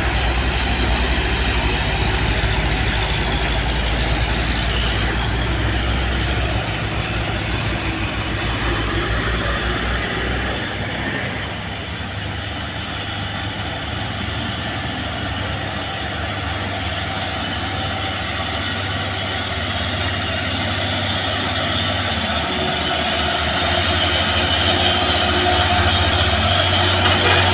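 Heavy diesel trucks labouring up a steep hill in low gear, engines running under load. The noise eases a little about midway, then grows louder again as the next truck comes up near the end.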